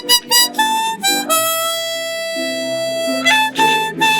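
Harmonica playing a folk melody: a few short notes, a long held note in the middle, then short notes again, over lower sustained chord tones.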